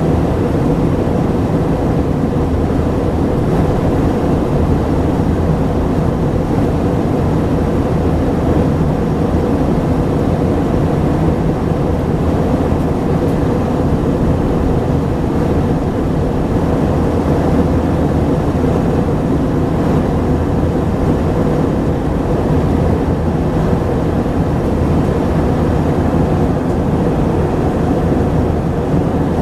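Steady drone of an Airbus A319-132's IAE V2500 jet engines and airflow, heard from inside the passenger cabin, with a constant hum under the rush of noise.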